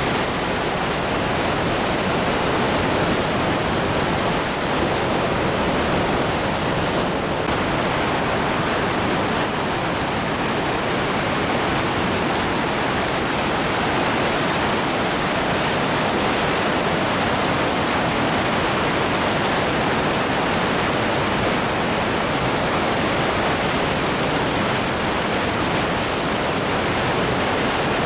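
Goðafoss waterfall, a steady, even roar of falling water.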